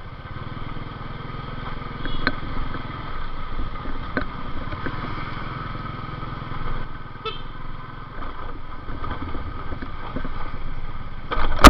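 Motorcycle engine running steadily while riding, with a sudden loud knock just before the end.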